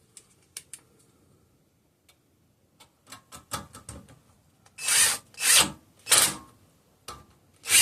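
A few light clicks, then a run of short rasping strokes, about two a second and growing louder, as a screw is turned in by hand to fasten the screen over the small Briggs and Stratton engine's flywheel.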